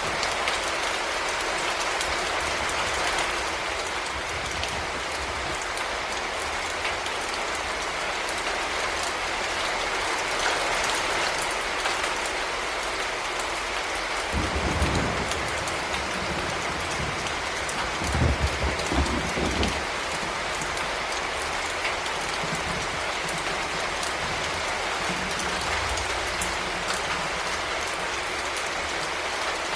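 Heavy rain falling steadily, a dense hiss with fine pattering drops. Two short low rumbles come through about halfway.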